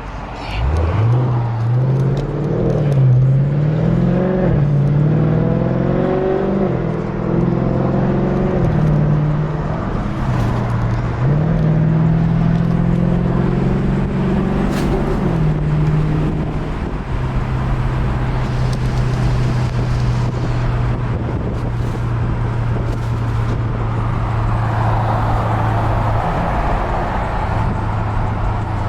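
Dodge Charger Scat Pack's 392 HEMI V8 accelerating, its pitch climbing and dropping back through several gear changes, then holding a steady drone at cruise for roughly the last twelve seconds.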